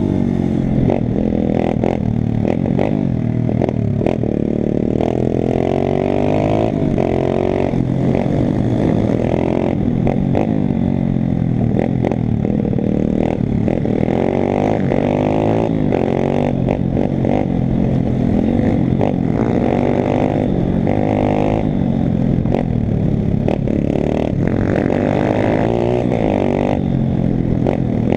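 YCF pit bike's single-cylinder four-stroke engine being ridden hard, revving up and dropping back again and again with gear changes and throttle, with some rattling and clatter from the bike.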